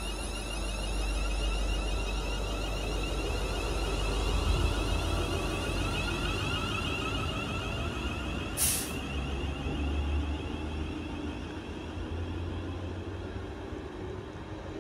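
Train at the station, with a steady low rumble under several high whining tones from its motors. A short, sharp hiss sounds about halfway through.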